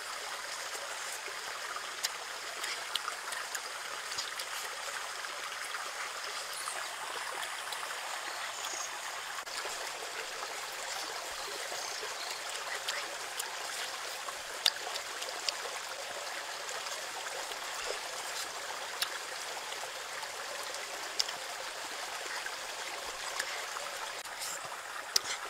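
Close-miked chewing of food: many short sharp wet mouth clicks over a steady hiss.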